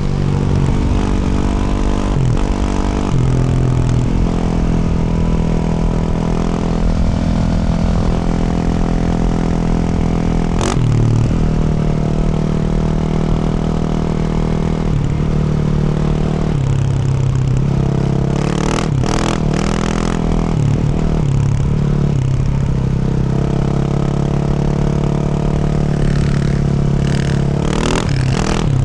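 Yamaha YZ450F's single-cylinder four-stroke engine through a Yoshimura RS-12 exhaust, running steadily under load, its note stepping up and down with throttle and gear changes several times. A few sharp clatters come near the end.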